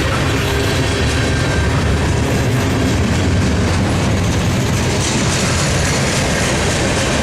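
Train rolling past, its wheels running on the rails with a steady noise.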